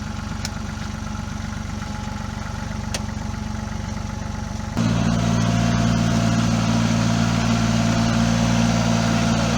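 Tractor engine running steadily, then about halfway through it suddenly gets louder and stays up at the higher level.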